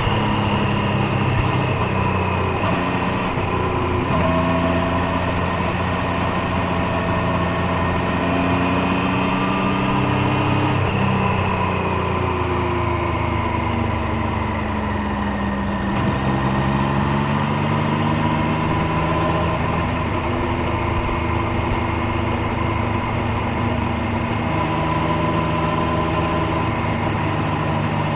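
Triumph Street Triple 765 Moto2 Edition's three-cylinder engine and exhaust under way, its note rising and falling with the throttle. The pitch slides down for several seconds after about eleven seconds in, then jumps back up around sixteen seconds and holds steady, over a constant rush of noise.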